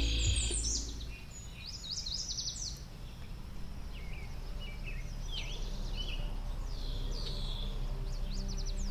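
Songbirds chirping and trilling in quick repeated phrases, over a faint low sustained drone of ambient music that fades in the first second.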